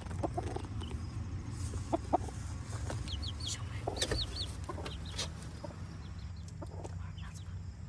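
Chickens clucking, with short high-pitched chick peeps in clusters about halfway through and again near the end.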